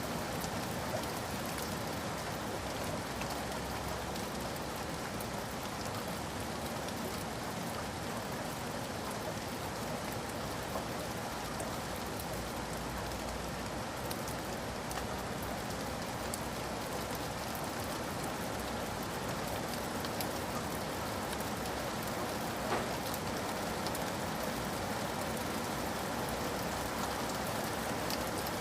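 Steady rain: an even hiss with scattered faint taps of drops, and one sharper tick about 23 seconds in.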